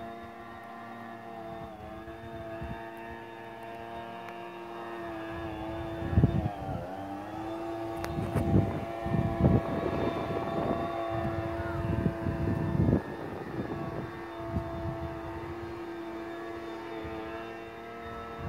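Small engine of a pesticide sprayer running steadily, its pitch dipping briefly and recovering about six seconds in. Irregular low thumps sound over it from about six seconds on.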